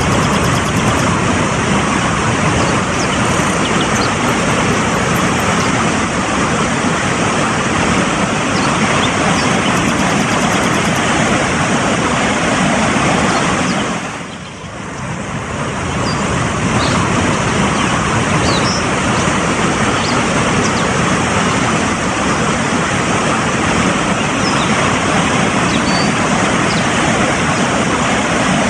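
Fast-flowing mountain stream rushing over rocks, a steady loud rush that dips briefly about halfway through.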